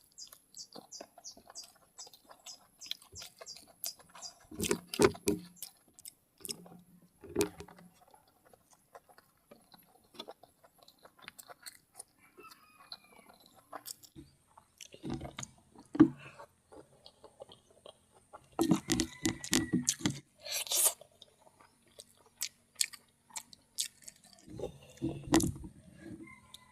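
Close-up eating sounds of a person eating nasi kuning: chewing and crunching in several bursts with pauses between, and small clicks in between. Rapid high chirping sounds in the first few seconds.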